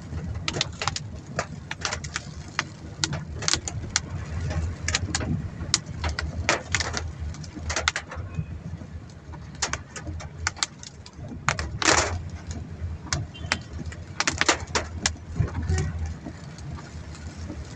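Inside a car driving in the rain: a steady low rumble of engine and road, with irregular sharp taps of raindrops hitting the car, several a second and uneven, one longer splash about twelve seconds in.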